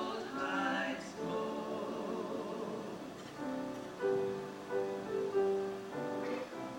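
Voices singing a slow song with instrumental accompaniment, the sung line wavering with vibrato early on and giving way to steadily held notes in the second half.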